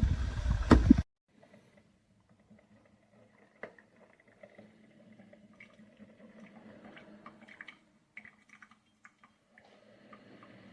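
Drip coffee maker brewing: loud gurgling and sputtering that cuts off abruptly about a second in, leaving only a faint low hum with scattered small ticks.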